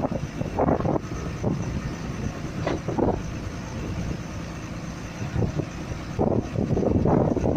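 Heavy diesel tipper truck engine running, its rumble surging unevenly.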